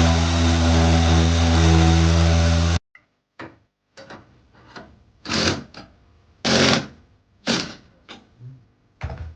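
Power tool running at a steady pitch for about three seconds, then stopping abruptly, followed by several short rasping cutting strokes. The sound comes from cutting the ceiling board to widen the opening for a recessed air-conditioner unit.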